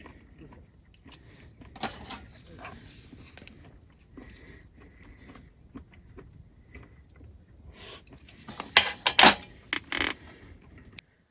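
Small clicks, clinks and rustles of things being handled, with a louder cluster of clatter about nine seconds in. The sound cuts off suddenly just before the end.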